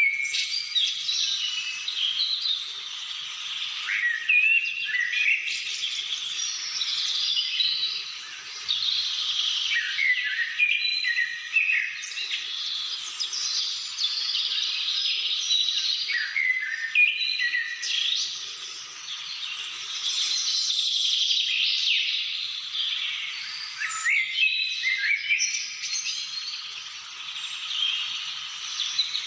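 Several birds calling and singing at once, a dense chorus of quick chirps and short whistled phrases that overlap without pause.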